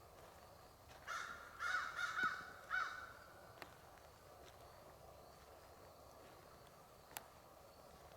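A crow cawing, about four harsh caws in quick succession, with a faint woodland background. A single sharp click comes near the end.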